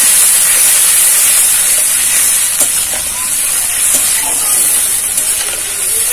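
Wet spice paste (ground spices mixed in water) sizzling and frying in hot oil in a metal kadai as it is stirred with a spatula: a steady hiss, with a couple of faint scrapes of the spatula midway.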